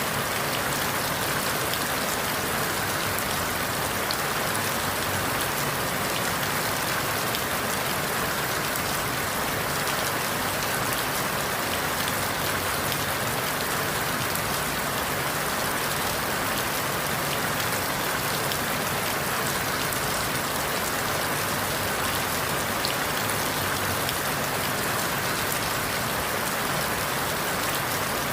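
Steady rain falling through forest leaves, an even patter of countless drops with scattered individual drip ticks.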